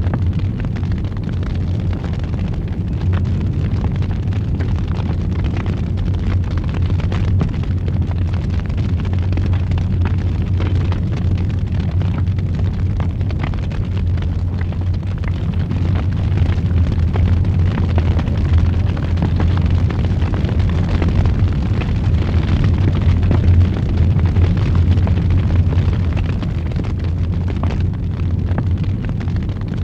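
Wood fire in a fireplace burning with a steady low roar, with scattered small crackles and pops throughout.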